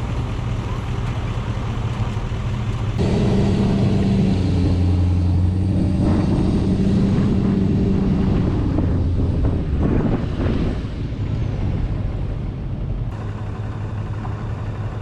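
Engine running steadily, louder from about three seconds in until about eleven seconds in.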